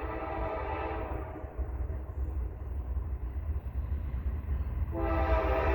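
Freight locomotive air horn blowing a chord. It fades out about a second in and sounds again abruptly near the end, over the low rumble of the passing freight train.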